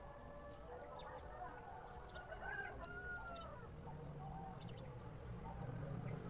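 Birds calling: a mix of short chirps and curved, rising-and-falling calls, with a low hum growing in the second half.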